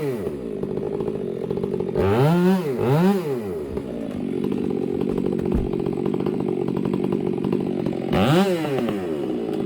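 Two-stroke chainsaw coming down from high revs to idle, blipped up to high revs twice about two and three seconds in, then idling, and revved once more near the end.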